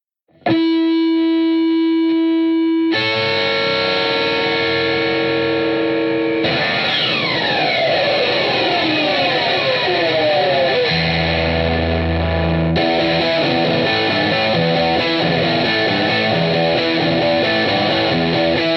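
Instrumental intro of a rock song: distorted electric guitar through effects holding sustained chords, changing about three seconds in, then a cascade of falling pitch slides from about six and a half seconds. A low bass note joins around eleven seconds.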